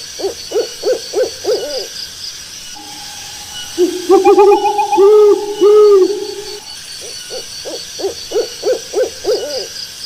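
Owl hooting: a quick run of short hoots, then a few longer, louder hoots around the middle, then another quick run of short hoots near the end.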